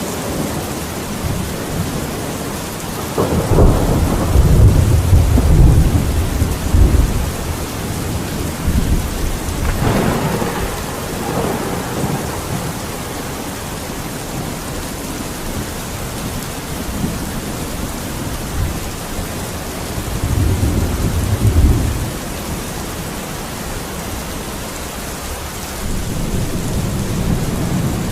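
Steady rain falling on a surface, with low rumbles swelling up several times, the loudest and longest a few seconds in.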